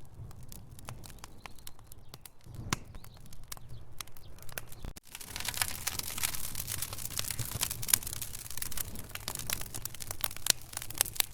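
Wood fire burning in a fireplace, logs crackling with frequent sharp pops over a low steady rumble. About five seconds in the sound cuts out for an instant and comes back with denser, hissier crackling.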